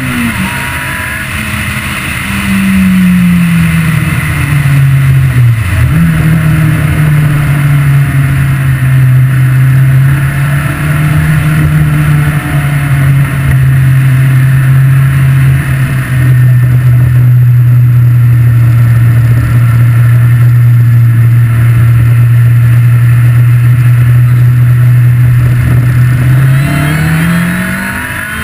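Ariel Atom's Honda four-cylinder engine heard onboard while driving, loud and close with wind noise over it. The engine note falls over the first few seconds, dips sharply for a moment near six seconds, then holds a steady pitch for a long stretch before rising again near the end.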